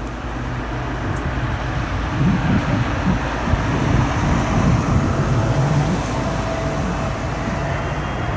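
Heavy jet airliner on final approach, its engines a steady roar with a low rumble. A faint steady whine joins about six seconds in as it draws closer.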